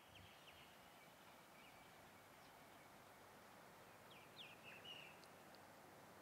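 Near silence: faint outdoor ambience with a few short bird chirps, the loudest a little past four seconds in.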